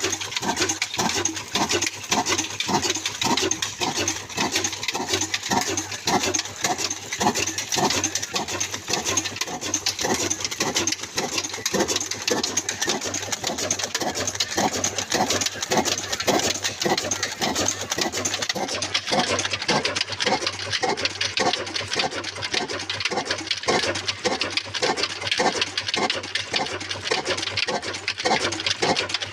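Old black desi diesel engine, a slow-running single-cylinder stationary engine, running steadily under load on a flour mill. It runs at an even, slow beat of about three pulses a second, with mechanical clatter over it.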